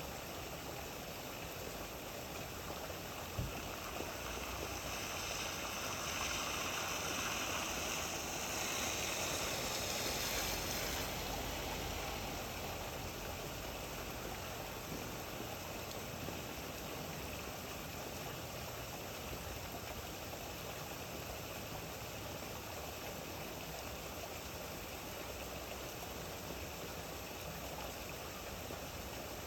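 Steady rain falling, an even hiss that swells louder for several seconds about a fifth of the way in, with one short knock about three and a half seconds in.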